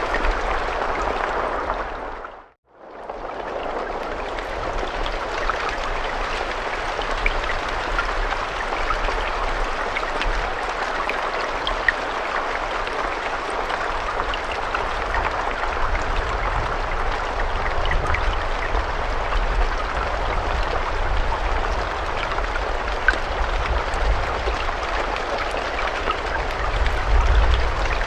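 Steady rain falling as a dense hiss, with scattered sharper drop taps and a low rumble underneath. About two and a half seconds in, the sound dips out briefly and fades back up, like a loop point in the recording.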